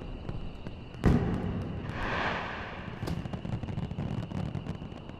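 Fireworks going off: a sharp bang about a second in, followed by a hiss and scattered crackles.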